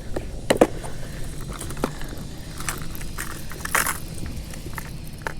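Scattered clicks and light jangling of fishing tackle being handled as a jerkbait lure is swapped, the loudest click a little before four seconds in, over a steady low hum.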